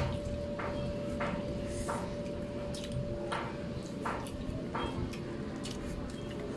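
Eating sounds close to the microphone: wet chewing and lip smacks from people eating noodles and rice with their hands, in short irregular clicks every half second to a second, over a faint steady hum.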